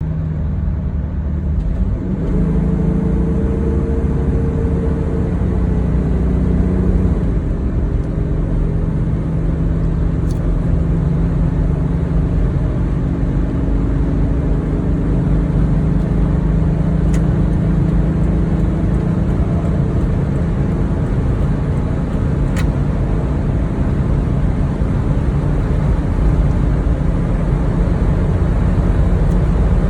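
Toyota Land Cruiser HDJ81's 4.2-litre straight-six turbo diesel running at highway speed, a steady low drone mixed with road noise. A couple of seconds in the engine note shifts in pitch, then holds steady.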